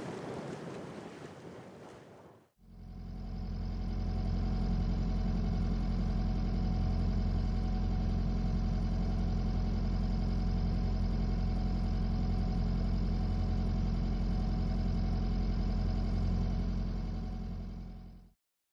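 Wind and water noise fade out over the first two seconds. Then a motorsailer's inboard diesel engine runs at a steady speed under way, a low, even drone that starts abruptly and cuts off just before the end.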